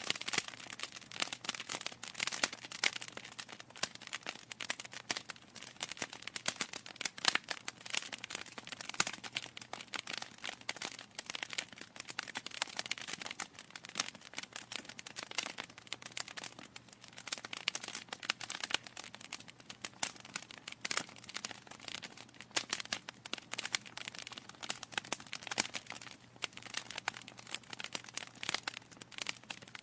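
Wood fire in a fireplace crackling, with dense, irregular pops and snaps from the burning logs over a faint steady hiss.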